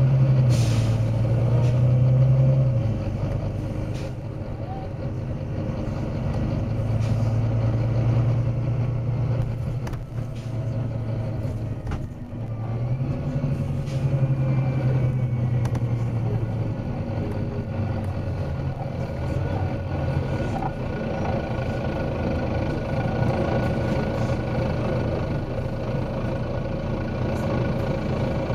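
Volvo B9TL double-decker bus's six-cylinder diesel running, its low drone swelling and easing off several times, with a short burst of air hiss about half a second in.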